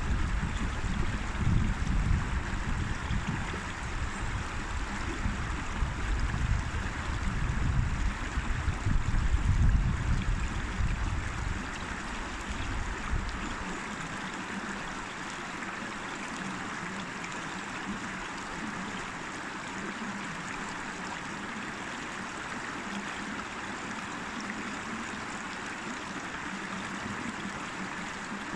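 River water flowing and rushing over rocks in a steady, even stream. A low, fluctuating rumble sits under it for the first dozen or so seconds and then dies away.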